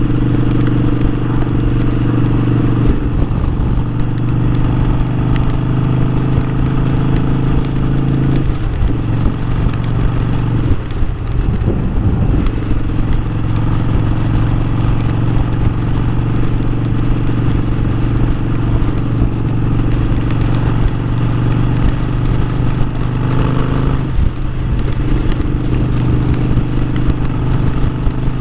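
Harley-Davidson Sportster 1200's air-cooled V-twin engine running under way, its note breaking off and settling at a new pitch several times.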